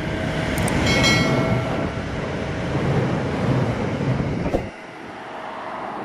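KiHa 183 diesel railcar train running on the rails, a loud rumble with wheel clatter. A brief high squeal comes about a second in. A sharp click comes near the end, and then the low rumble drops away.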